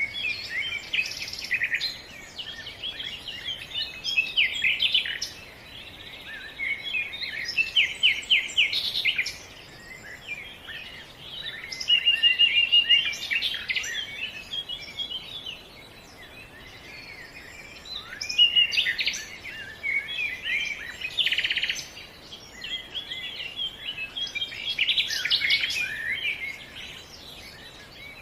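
Songbirds singing, with phrases of quick chirps, trills and short whistled notes overlapping and coming in bursts every few seconds.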